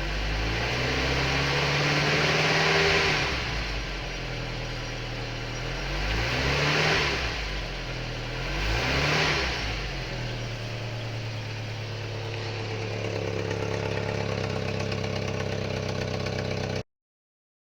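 Żuk van's S-21 four-cylinder petrol engine, running in frost after a cold start, revved up three times and then settling to a steady idle before the sound cuts off suddenly near the end. The owner considers its spark too weak and the plugs and HT leads due for replacement.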